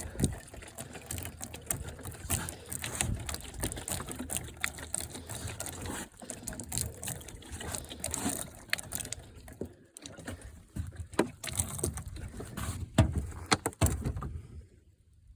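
Water being put onto freshly sawn cedar boards to bring out the grain, with a busy run of irregular clicks, scuffs and hissy splashes that stops shortly before the end.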